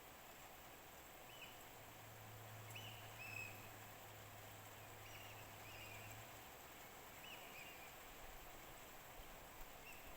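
Faint outdoor quiet with a bird giving short high chirps, often in pairs, every second or two, over a low steady hum that fades out about halfway through.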